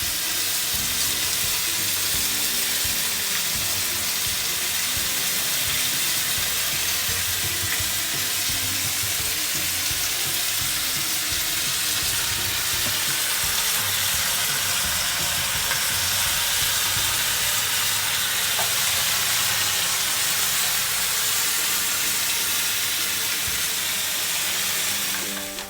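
Chicken pieces sizzling steadily in a hot pan with oil, honey and sauce. The sizzle cuts off suddenly at the end.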